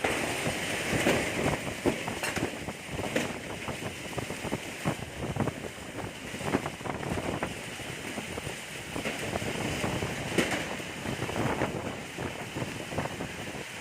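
Strong storm wind gusting hard against the microphone, with irregular sharp flaps and knocks that fit a tent being buffeted by the wind.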